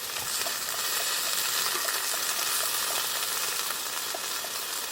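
Teriyaki chicken sizzling in a pan, a steady high sizzle with small scattered pops, as the slightly underdone meat is cooked through.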